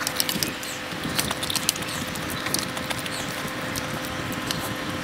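Close-miked eating of fried noodles: chewing with many small, sharp wet mouth clicks, and chopsticks picking at a steel tray.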